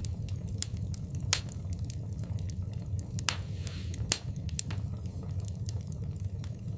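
Wood fire burning in a fireplace: irregular crackles and sharp pops over a steady low rumble of the flames, with a few louder pops about a second in, past the three-second mark and around four seconds in.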